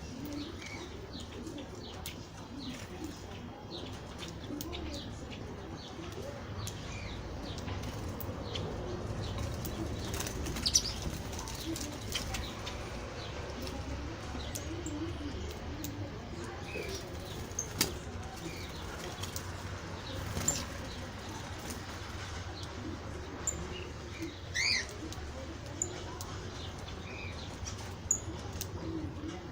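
Birds: a steady low cooing with scattered sharp clicks of wings, and a few short high chirps, the loudest about three-quarters of the way through.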